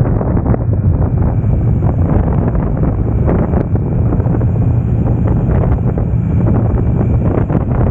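Triumph Tiger Sport 660's inline three-cylinder engine running steadily while the bike is ridden, with heavy wind buffeting on the microphone.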